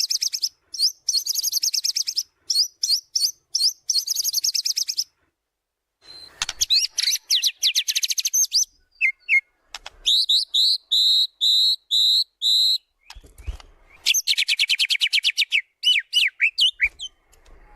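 White-rumped shama (murai batu) singing a loud, varied song: fast rattling trills, then a run of five evenly spaced high whistled notes about 10 seconds in, followed by more trills. A brief low thump sounds about 13 seconds in.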